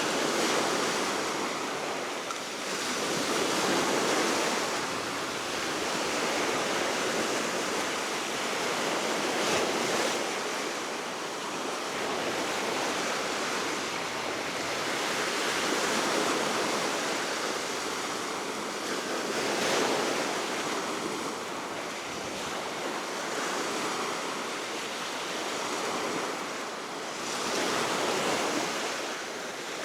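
Waves breaking and washing on the Baltic Sea shore below a cliff, swelling and ebbing every few seconds, with steady wind.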